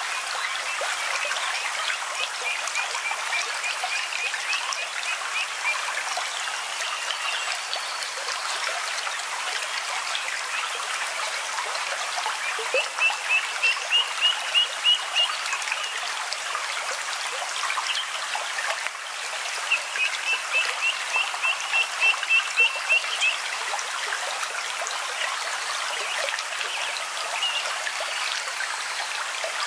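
Steady running stream water, with an animal's chirping call heard three times: each call is a run of short, high chirps at about three a second that grows louder, and the second and third calls are the loudest sounds.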